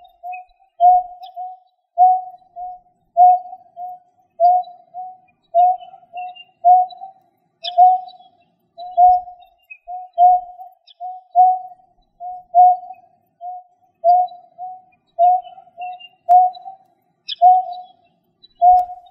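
A bird calling steadily, a short low whistled note, often doubled, repeated about once a second. Faint higher chirps from another bird come in a few times.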